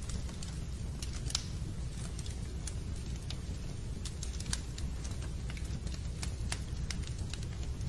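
Fireplace fire crackling: a steady low rumble with irregular sharp pops and snaps, several a second.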